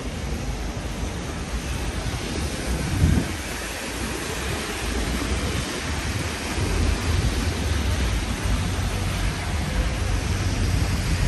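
Rain falling on a city street: a steady hiss over a low rumble, with a brief louder thump about three seconds in.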